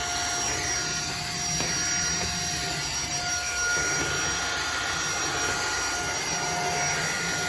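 XREXS cordless handheld vacuum running on its lowest suction setting: a steady motor whine over the hiss of rushing air.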